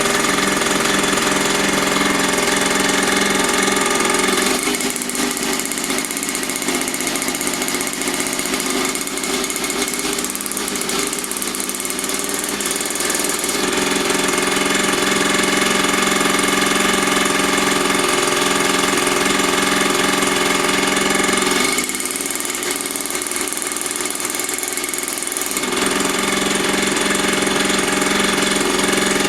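Small mini dirt bike engine running steadily, easing off a little quieter twice for several seconds before picking up again.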